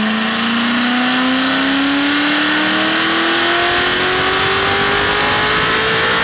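Corvette Z06's LS7 V8, built with heads, cam and headers, at wide-open throttle on a chassis dyno: the engine note climbs steadily through one long pull of about six seconds, then the pull ends right at the close.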